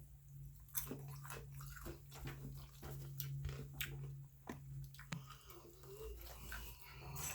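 A person chewing and biting food close to the microphone, with many small irregular mouth clicks, over a steady low hum.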